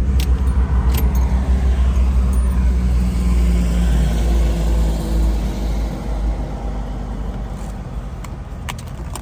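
The 1984 Pontiac Trans Am's V8 runs with a steady low rumble, easing off slightly after about six seconds. There are a few sharp clicks, one at the start, one about a second in and one near the end.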